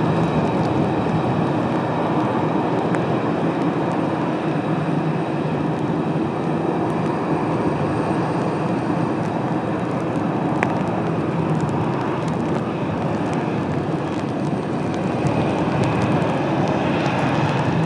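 Jet airliner engines running with a steady rush and a faint high whine, swelling near the end.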